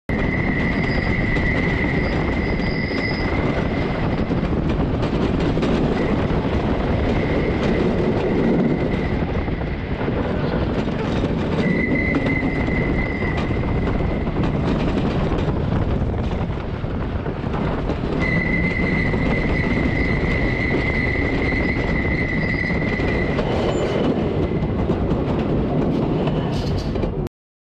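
Tonnerre de Zeus wooden roller coaster train running along its wooden track, with a loud, steady rumble of the wheels. A high-pitched wheel squeal comes and goes over it, strongest near the start and again about two-thirds of the way through. The sound cuts off abruptly just before the end.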